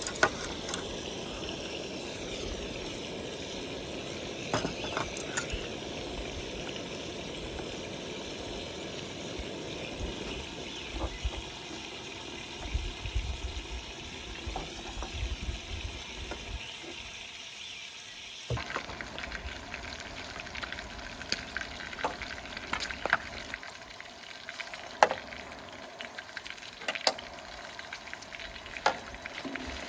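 Food sizzling as it fries in a pan, with the sharp clicks and taps of utensils turning it. The sizzle changes abruptly about two-thirds of the way through, and the clicks come more often after that.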